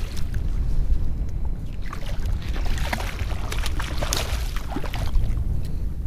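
Water sloshing and splashing around a kayak on a choppy sea, heaviest in the middle, over a steady low rumble of wind on the microphone.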